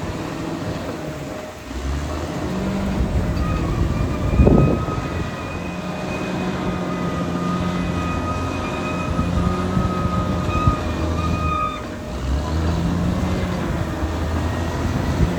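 Caterpillar D6R XL bulldozer's diesel engine working, its pitch rising and falling with load, with a thin steady whine on top that stops about twelve seconds in. A single sharp knock comes about four and a half seconds in.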